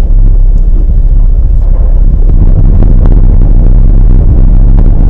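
Car driving, heard from inside the cabin: a loud, steady low rumble of road and engine noise, with a few faint clicks.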